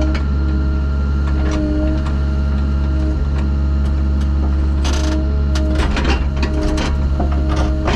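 Construction machine engine running steadily under a low drone, with a whine that comes and goes, scattered knocks and rattles, and a short hiss about five seconds in.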